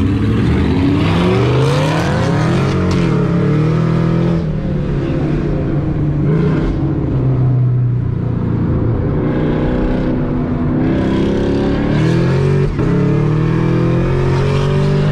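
Car engine accelerating hard. Its pitch climbs over the first few seconds, settles, then climbs again in the second half as it pulls through the gears.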